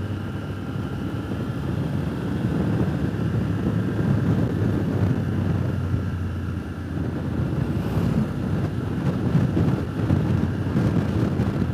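Triumph Tiger motorcycle engine running at a steady cruise, with wind rushing over the microphone.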